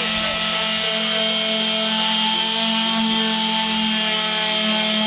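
Power sanders running steadily on the body panels of a VW-based rat rod: a constant motor whine held at several fixed pitches over an even sanding hiss.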